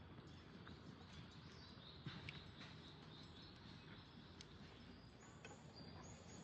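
Faint birds chirping over quiet outdoor ambience: scattered short high calls, with a few brief whistled notes in the second half.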